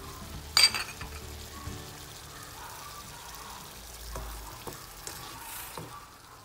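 Chicken pieces frying in soy sauce in a pan, a light sizzle under background music, with one sharp clatter about half a second in.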